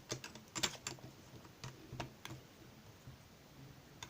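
Plastic snap-together parts of an electronic construction kit clicking as connector pieces are pressed onto the base board: several sharp clicks in the first couple of seconds, fewer toward the end.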